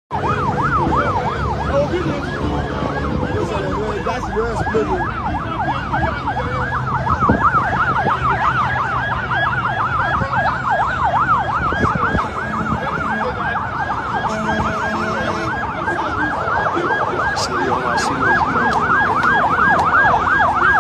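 Emergency vehicle siren in a fast yelp, its pitch sweeping up and down about three times a second without pause.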